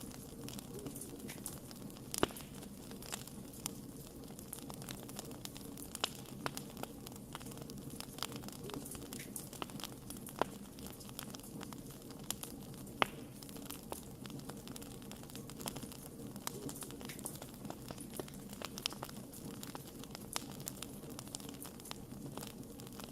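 Wood fire crackling: irregular snaps and pops over a steady low rumble of burning, with a few sharper pops standing out.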